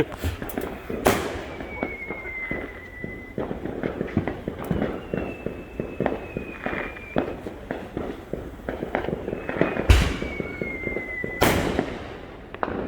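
Consumer fireworks going off: three loud bangs, about a second in and twice near the end, over a steady stream of smaller pops and crackles. A faint whistle, falling slowly in pitch, comes and goes three times.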